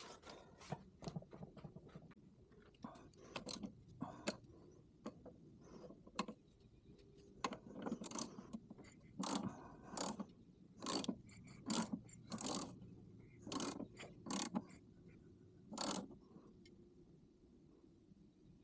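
Ratchet or hand tool working on engine parts: a series of short, clicking mechanical strokes, sparse at first and coming in a quicker irregular run through the middle to latter part.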